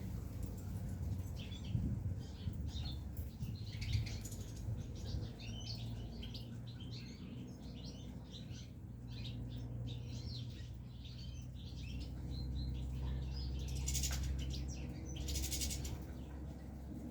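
Caged goldfinches chirping in quick, scattered calls, with wings fluttering. Two short rustling bursts come near the end, over a low steady hum.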